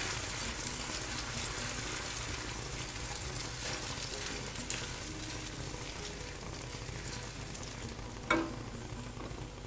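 Chopped tomatoes and tomato paste sizzling steadily in hot oil in a frying pan, stirred with a wooden spatula; a brief louder sound about eight seconds in.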